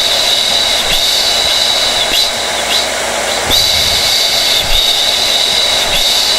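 Hair dryer running steadily: a constant rush of blown air with a high, even whine.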